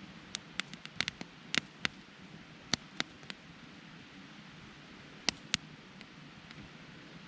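Wood campfire crackling: irregular sharp pops, a quick cluster in the first three seconds and two more a little after five seconds, over a faint steady background noise.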